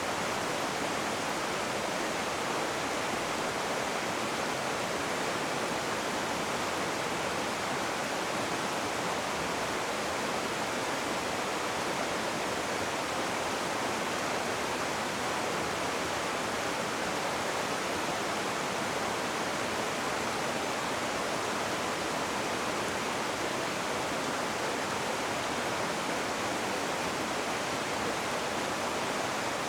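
Rushing river water: a steady, unbroken roar of flowing water with no distinct splashes or pauses.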